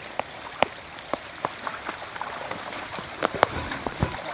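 Rain falling: a steady hiss with many scattered individual drops striking close by.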